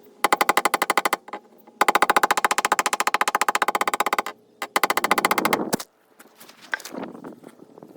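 Air hammer rapidly striking a sheet-metal car body panel in three bursts, the longest about two and a half seconds, knocking a drilled, dented area back down. Quieter scattered clinks and scraping follow.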